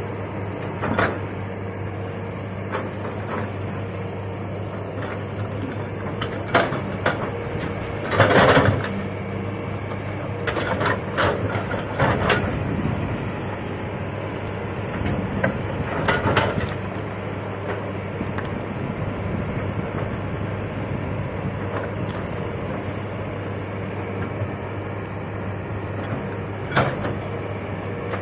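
Excavator engine running steadily under work, with sudden loud clanks and crashes now and then, the loudest about a third of the way in.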